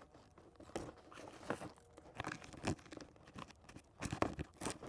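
Irregular crunching and crinkling as a bag of food is pushed and wedged into a tight gap by hand, loudest about four seconds in.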